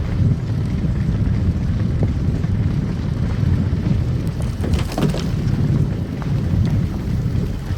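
Car driving on a snow-covered road: a steady low rumble of tyres and engine, with a short patch of crackling clicks about five seconds in.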